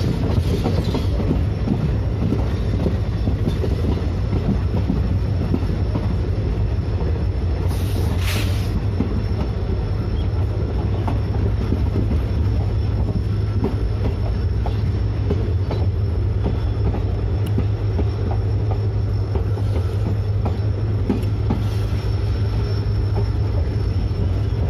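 Indian Railways passenger train running, heard from the open doorway of a blue coach: a steady heavy rumble of wheels on rail with scattered clicks, and a brief hiss about eight seconds in.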